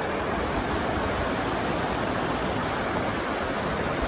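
Rushing floodwater: a steady, even noise of fast-flowing water.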